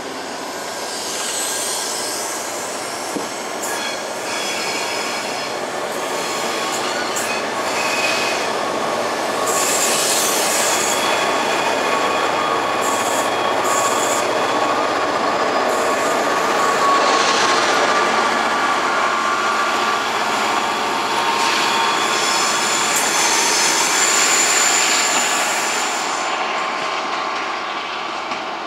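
Chiltern Railways loco-hauled passenger train, with class 67 diesel 67010 at one end, moving out past the platform. Its coach wheels rumble on the rails and give a steady high-pitched squeal. The sound builds to its loudest through the middle and fades near the end as the train draws away.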